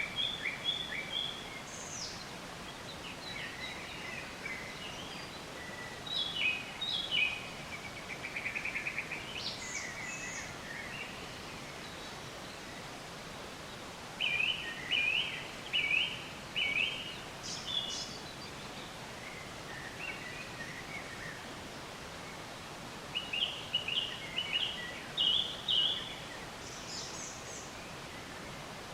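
Songbirds chirping and singing over a steady background hiss: scattered short calls, a fast trill, and runs of quickly repeated phrases.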